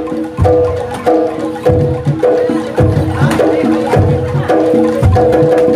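Live jaranan (kuda lumping) music: tuned percussion plays short repeated notes about twice a second over low drum strokes in a steady, driving rhythm.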